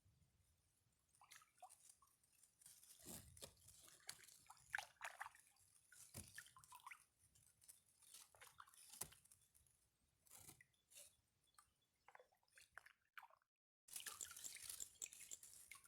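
Faint dripping and small splashes of water with scattered light clicks, cutting out completely for a moment near the end.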